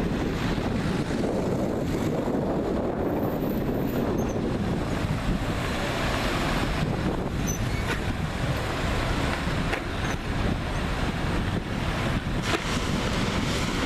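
Steady outdoor street noise: road traffic running with wind on the microphone.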